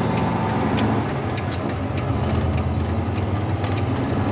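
Freight semi-truck's diesel engine idling steadily, a low even hum with a few faint clicks over it.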